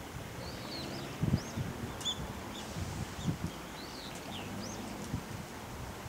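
Small birds calling: a scattered series of short high chirps and quick rising and falling whistles, over low gusts of wind buffeting the microphone.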